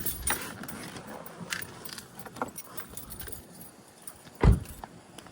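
Light jingling and clicking of keys carried by someone walking, with one dull thump about four and a half seconds in.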